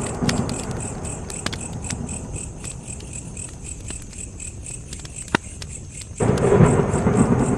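Wood fire crackling with scattered sharp pops, one standing out near the middle, over a steady pulsing chirp of crickets. A loud low rumble fades over the first second or so and cuts in again abruptly about six seconds in.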